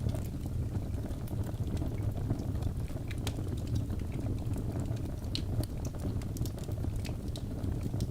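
Birch logs burning in a fireplace: a steady low rumble of the fire with scattered sharp crackles and pops, a few louder ones about three and five seconds in.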